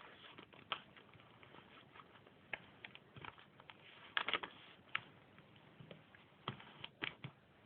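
Sheet of paper being folded and creased by hand: scattered soft crinkles and crackles, busiest about four seconds in and again near the end.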